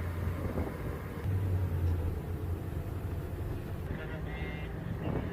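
A vehicle engine running with a steady low hum, with faint voices over it.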